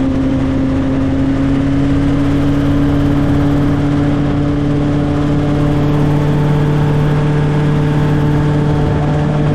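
Helicopter's engine and rotor drone, a loud steady hum with several held tones.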